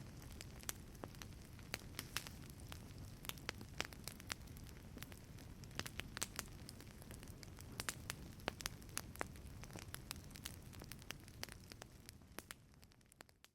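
Wood fire crackling in a fireplace: irregular sharp pops and snaps over a low steady rumble of the flames, fading out near the end.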